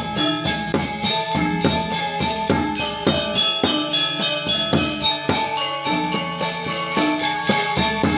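Balinese gamelan ensemble playing: bronze metallophones and gongs struck in a quick, steady stream of ringing notes, with several strokes a second.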